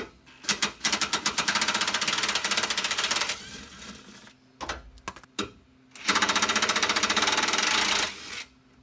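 Impact wrench with a 15 mm socket hammering a belly-pan bolt loose, in two bursts of rapid hammering about two seconds each.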